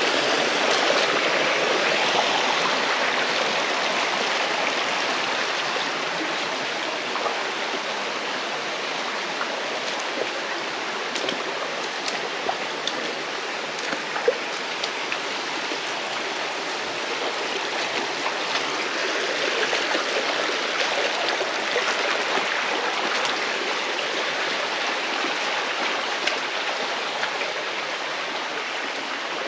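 Mountain stream running in a gorge: a steady rush of flowing water that swells and eases slightly, with a few small sharp clicks, the clearest about fourteen seconds in.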